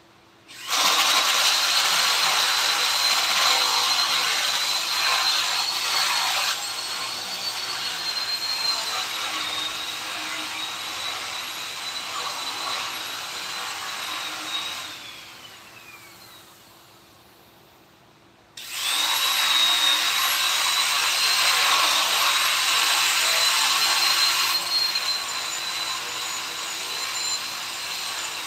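A high-speed electric rotary tool runs with a steady high whine, working on wood. About halfway through it is switched off and winds down with a falling whine. A few seconds later it starts again suddenly and keeps running.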